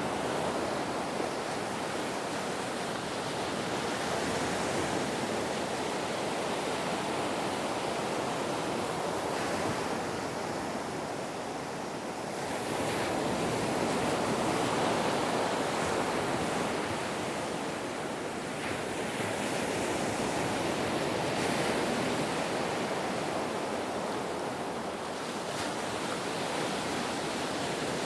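Ocean waves breaking and washing on a shore, a steady surf rush that swells and eases slowly over several seconds.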